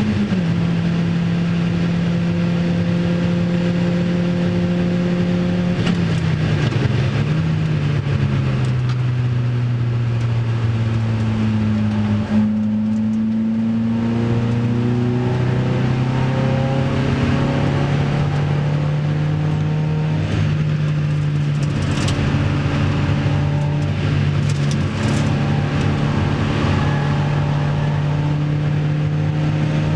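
Opel Speedster's 2.2-litre four-cylinder engine at full speed, heard from inside the cockpit with wind and road noise. Its pitch falls in steps as the car slows from about 186 to 100 km/h in the first half, then it pulls steadily again as the car accelerates.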